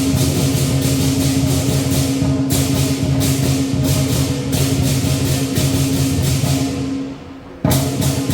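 Lion dance percussion band playing: drum and clashing cymbals in an even rhythm of about three strokes a second over a steady ringing tone. The playing fades off about seven seconds in and starts again with a sharp hit just before the end.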